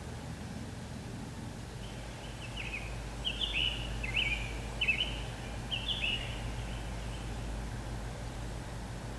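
A songbird singing a run of short, repeated down-slurred phrases for about five seconds, starting about two seconds in, over a steady low rumble.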